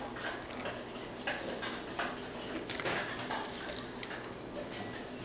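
Close-up chewing of crispy fried chicken and fried bread: irregular small crunches and clicks with no steady rhythm.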